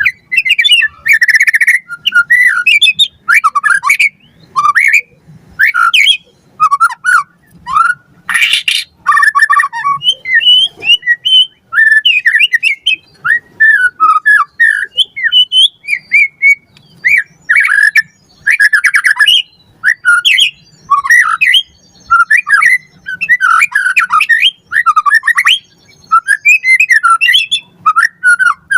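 White-rumped shama singing a loud, fast, varied song. Clear whistled phrases come in quick bursts with short pauses between them, mixed with harsh rasping notes and rapid rattles.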